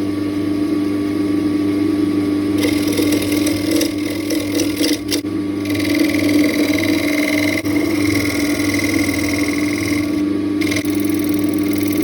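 Wood lathe running with a steady motor hum while a 30 mm Forstner bit in a Jacob's chuck bores into the spinning wood blank. The rougher cutting noise comes in two long spells, from a few seconds in to about the middle and again until near the end.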